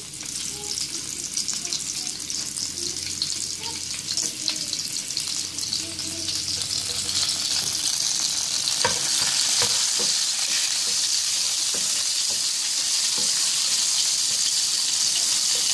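Sliced garlic and dried red chillies sizzling in hot oil in a non-stick frying pan, the sizzle growing louder about halfway through. A spatula stirs them in the second half, with a few light taps against the pan.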